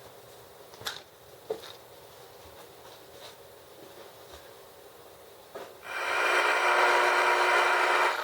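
A few faint clicks, then about six seconds in a Marx toy electric train starts running: a steady loud rattle and whir of the motor and wheels on the track.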